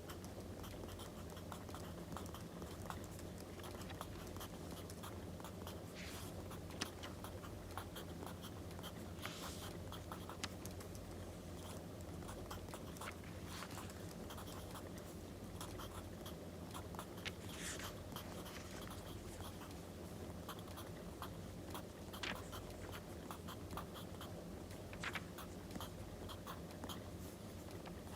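Writing on paper and light paper rustling at a desk, scattered small scratches and ticks with a few louder brushes, over a steady low background with faint crackling firewood.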